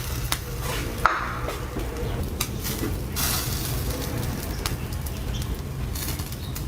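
Campfire cooking: metal utensils clicking against a pan, with a sharp clink about a second in, over a faint sizzle.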